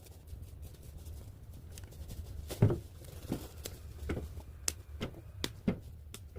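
A string of short crunches and knocks, about one every half second from midway, the loudest about two and a half seconds in: footsteps on crunchy frozen ground.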